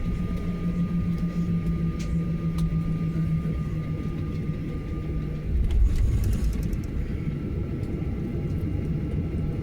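Cabin noise of a Boeing 737-900ER during departure: a steady low rumble with a hum from its CFM56 jet engines that fades out about halfway. A single thump follows a little after halfway.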